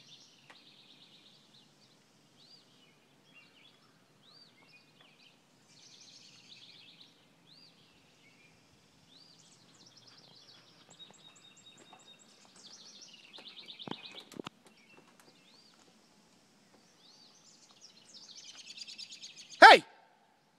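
Wild birds calling throughout: repeated short chirps, arcing whistled notes and buzzy trills over a faint low background hum. Near the end comes one sudden, loud, sharp noise.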